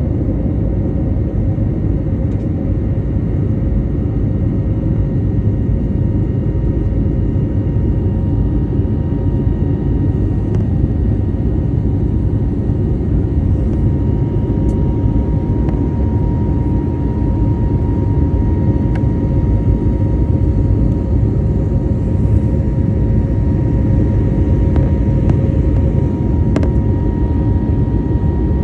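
Steady in-flight cabin noise of an airliner: a loud, even rumble of engines and airflow, with faint steady hums on top, one of which grows stronger about halfway through.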